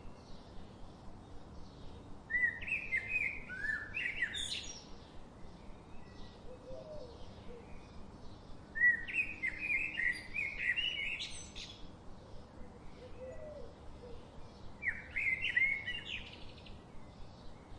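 A songbird singing three warbled phrases of about two seconds each, over a faint, steady, rapid ticking.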